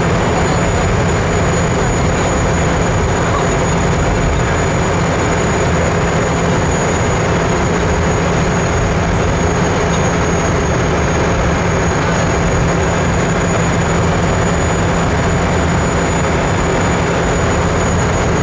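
Steady engine and road noise of a vehicle driving at an even speed, heard from inside its cabin, with a constant high-pitched whine over it.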